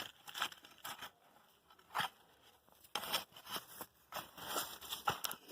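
Soil being scraped up and thrown back into a hole to rebury cassava roots: irregular short scrapes and crunches of earth.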